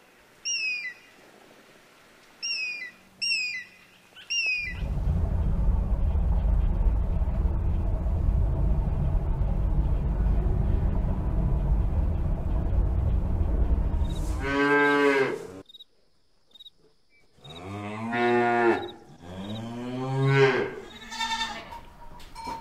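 A Steller's sea eagle gives about five short, high, falling calls. Then a loud, steady low rumble runs for about ten seconds. Near the end come several long, drawn-out livestock calls.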